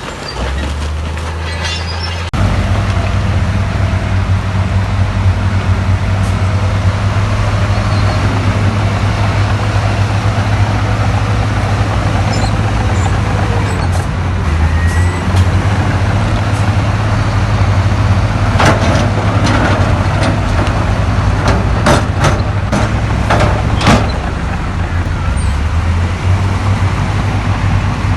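Diesel engine of heavy earthmoving machinery running steadily under load. It gets louder a couple of seconds in, and there is a run of sharp knocks and clanks about two-thirds of the way through.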